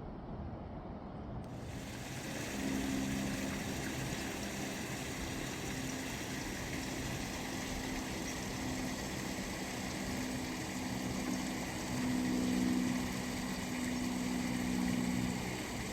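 A steady low hum that swells and fades, over a continuous outdoor background hiss.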